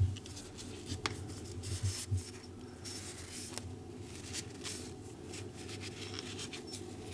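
Rag rubbing and wiping over a part during an oil change, light scratchy friction with a couple of faint clicks.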